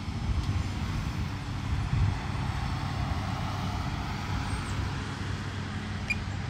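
A steady low engine rumble with a faint hiss of wind.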